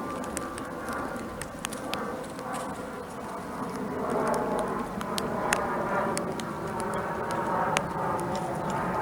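Outdoor backyard ambience: a steady background rumble that swells a little about halfway through, with many sharp ticks and taps falling at irregular intervals.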